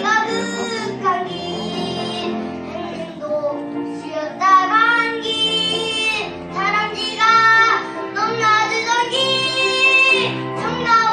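A young child singing a solo with held, sliding notes over a steady instrumental accompaniment.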